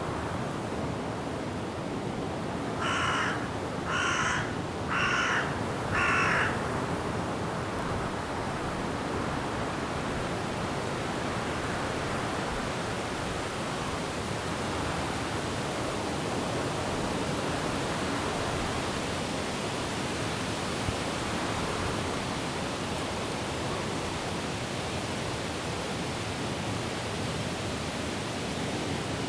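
Steady rushing of wind and rain through forest trees. About three seconds in, a bird gives four loud calls about a second apart.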